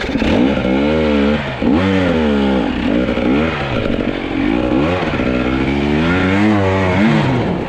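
Two-stroke fuel-injected enduro dirt bike engine revved hard and let drop again and again, about eight rising and falling swells of pitch, as the rider works the throttle up a steep, technical climb.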